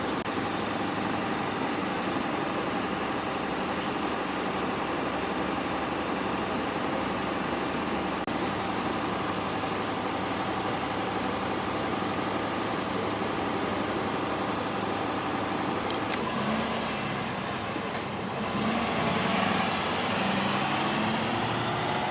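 Steady vehicle engine hum with a few held pitches, as of emergency vehicles idling. About sixteen seconds in the hum shifts, and louder irregular sounds come in over it near the end.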